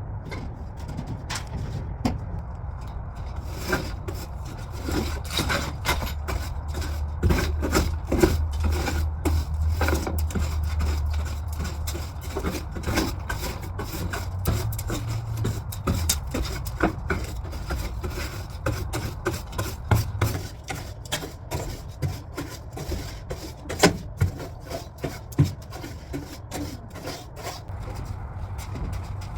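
Scrubbing on wood, rubbing and scraping in quick, irregular strokes, as mold is scrubbed out of a camper's interior with a bleach, detergent and warm-water solution.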